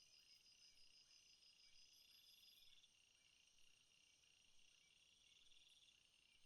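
Faint night chorus of crickets and other insects: overlapping high-pitched trills and pulsed chirping that swell and fade in patches, with a short rising chirp repeating about twice a second underneath.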